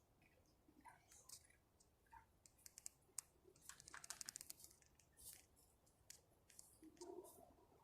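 Faint scattered clicks and crackles, with a quick rattle of many clicks about four seconds in and a soft low rustle near the end.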